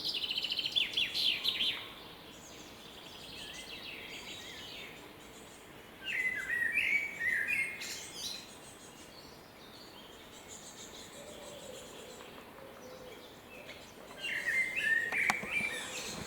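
Songbirds singing in a Swedish forest. One bird repeats a short, quick song phrase three times: at the start, about 6 s in, and about 14 s in. Fainter calls from other birds come in between.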